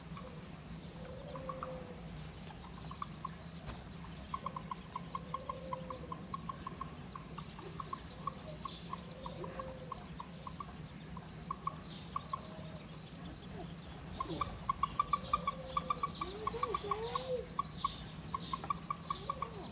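Birds calling: a rapid run of short clicking notes that gets busier about two-thirds of the way in, with short, low, arched calls every couple of seconds and a few high chirps, over a steady low hum.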